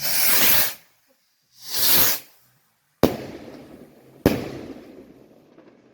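Garden fireworks going off: two short hissing whooshes about a second and a half apart, then two sharp bangs about a second apart, each trailing off.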